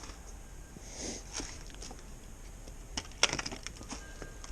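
Scattered light clicks and knocks of small things being handled, with a quick cluster of them about three seconds in.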